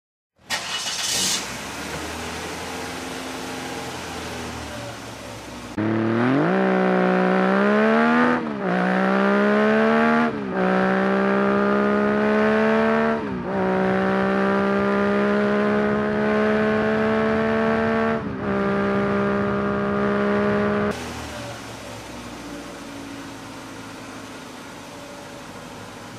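Motorbike engine sound effect accelerating through the gears. Its pitch climbs and drops back at each of several shifts, then holds steady. It cuts off near the end, leaving a quieter steady rumbling hiss.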